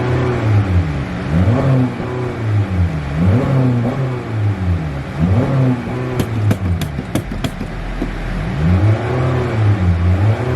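Car engine being revved with the accelerator pedal, its pitch climbing and falling back every second or two. Past the middle it settles lower for a couple of seconds while about five quick sharp clicks sound, then it revs up again near the end.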